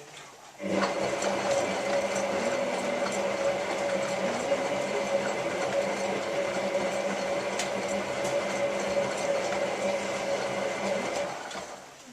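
Hotpoint 9534A washing machine's motor turning the drum during the main wash: it starts suddenly about a second in, runs steadily with a constant whine for about ten seconds, and winds down near the end.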